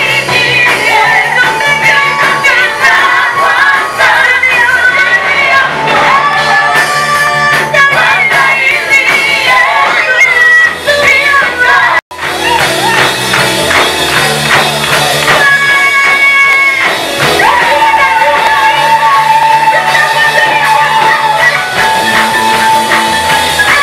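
Gospel praise music: singers carrying a melody over a band with bass. The sound cuts out for an instant about halfway through, then the music resumes.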